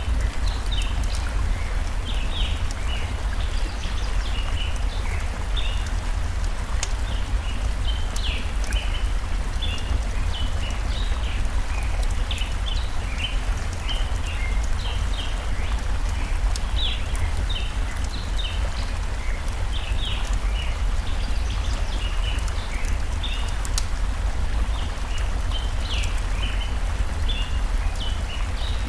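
Layered forest ambience: a steady rush of flowing stream water with a deep rumble underneath, small birds chirping over and over, and sharp crackles of a burning wood fire.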